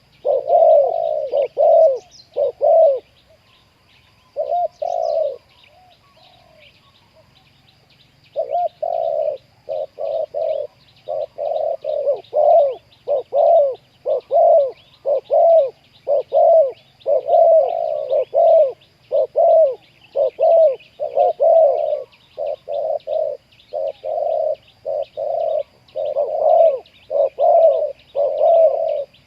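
Spotted doves cooing over and over in quick runs of short, low coos. The coos pause briefly twice in the first third, then run on almost without a break. Faint high insect or bird chirping runs underneath.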